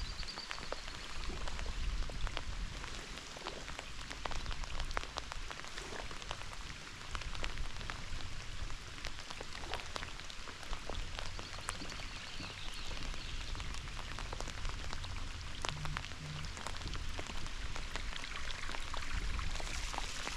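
Steady rain falling on a lake, with many sharp individual drop hits.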